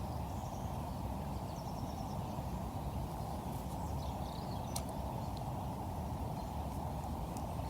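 Steady low rushing outdoor background noise, with a few faint high bird chirps.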